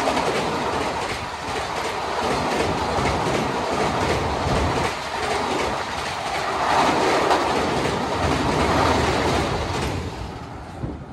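Passenger train running past at speed, its wheels clattering over the rails with many sharp clicks; the noise dies away near the end.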